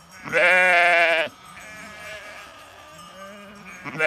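Sheep bleating: one loud, wavering bleat about a second long near the start, and another beginning right at the end.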